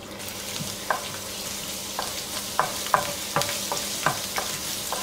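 Chopped ginger sizzling in hot vegetable oil in a non-stick pan, with a wooden spatula scraping and tapping the pan every half second or so as it is stirred.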